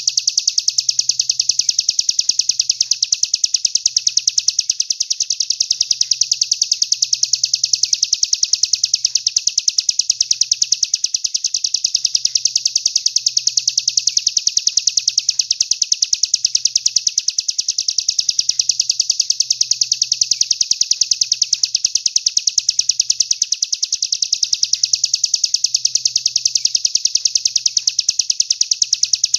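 Songbird masteran recording: a fast, unbroken run of high chirps repeating evenly several times a second, a song phrase looped for training competition songbirds.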